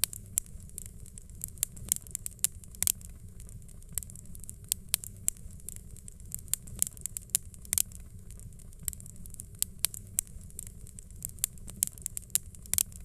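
Crackling wood fire: irregular sharp pops and snaps, several a second, over a steady low rumble of the flames.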